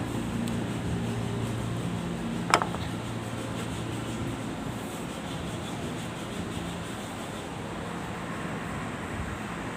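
An engine running steadily, with a low hum that weakens about four seconds in, and one sharp click about two and a half seconds in.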